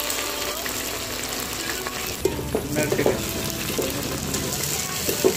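Chopped onions sizzling in hot mustard oil in a metal pot. From about two seconds in, a spatula stirs them, scraping and knocking against the pot, with a sharp clatter near the end.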